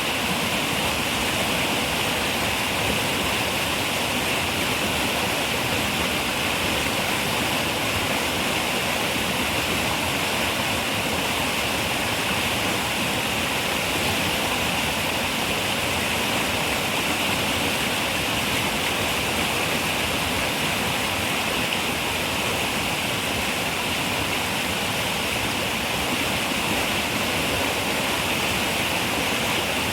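River water running and rushing steadily, an even hiss with no breaks or single splashes.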